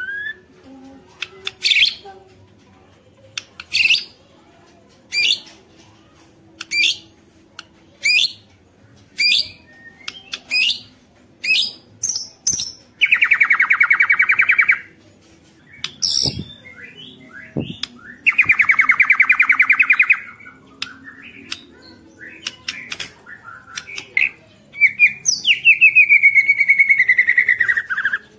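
White-rumped shama (murai batu) singing: a run of short, sharp whistled notes about one a second, broken by loud, fast rattling trills (ketrekan) in the middle and a long buzzy rattle falling in pitch near the end.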